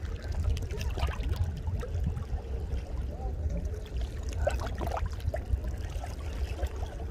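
Sea water splashing and trickling over a steady low rumble, with faint voices.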